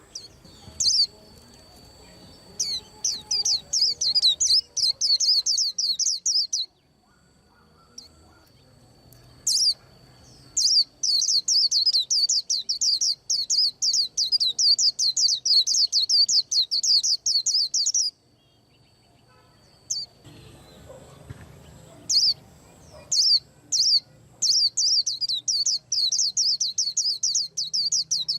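A white-eye singing long runs of rapid, high chirping notes, three runs lasting several seconds each with short pauses between them. A thin steady high tone sounds during the pauses.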